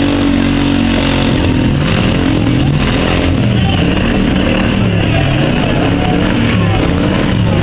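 Several demolition derby cars' engines running and revving at once, their pitches rising and falling over each other.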